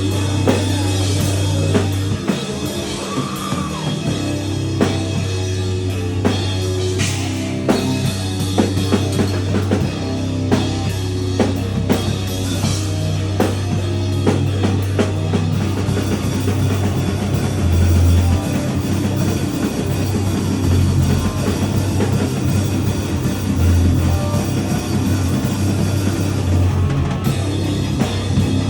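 Live hardcore punk band playing loud: distorted electric guitar, heavy bass and drum kit with frequent cymbal and snare hits.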